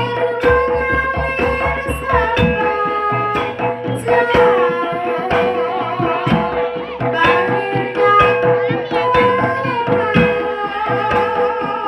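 Live jaranan music: Javanese kendang hand drums playing rapid strokes under a held tone and a wavering melodic line.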